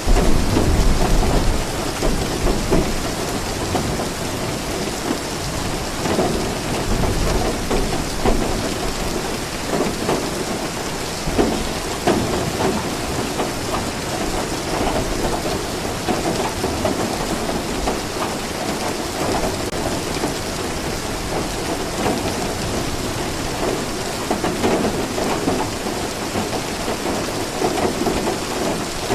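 Steady heavy rain falling, with a low rumble of thunder in the first couple of seconds.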